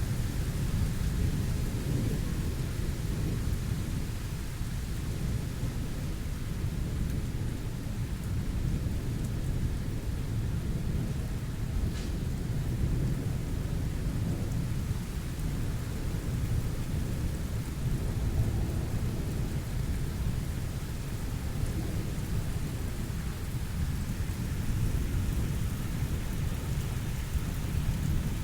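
Thunderstorm: steady rain with a continuous low rumble of thunder, and one sharp click about twelve seconds in.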